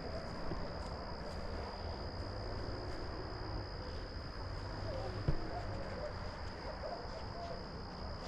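An insect's steady high-pitched trill, one unbroken tone over low rumbling outdoor noise, with a single sharp knock about five seconds in.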